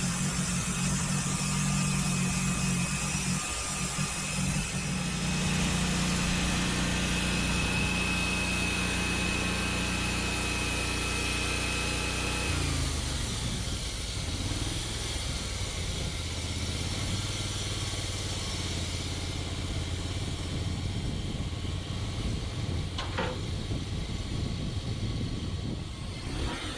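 Small gasoline engine of a portable bandsaw mill running steadily, with a thin high whine over it. About halfway through the whine stops and the engine note drops lower, as when the throttle comes back at the end of a cut.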